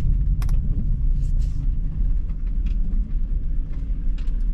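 Steady low road and engine rumble inside a moving van, with a few faint clicks.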